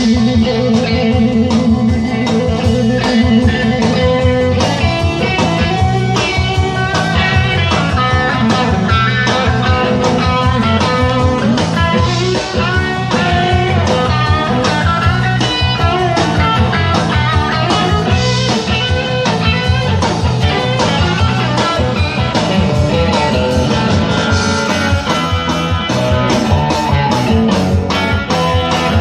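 Live rock band playing an instrumental passage, with a guitar solo over bass and drums; the cymbals become busier near the end.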